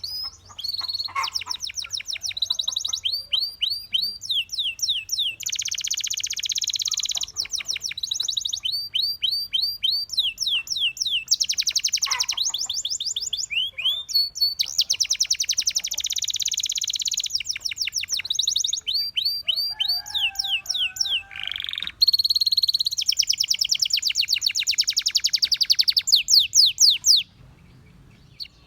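Domestic canary singing a long, loud song of fast trills and rapidly repeated notes mixed with buzzing rolls, switching phrase every second or two; the song breaks off near the end.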